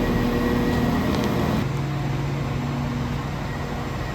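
Diesel train engine idling with a steady low hum and held tones; the hum shifts abruptly about a second and a half in.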